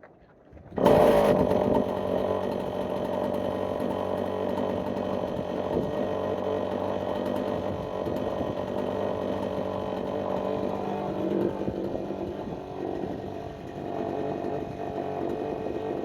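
Chainsaw with a freshly sharpened chain comes in abruptly about a second in, then runs steadily at high speed, milling a log.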